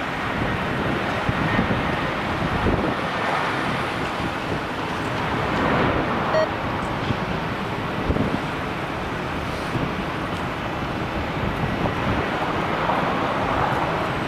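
Wind buffeting the microphone in gusts over the steady rushing noise of jet airliner engines, which swells twice.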